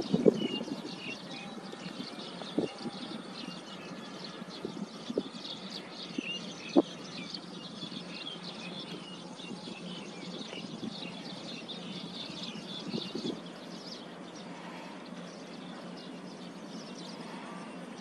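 Outdoor ambience of small birds chirping over a steady hiss, the chirps thinning out after about fourteen seconds. A few sharp knocks come in the first half.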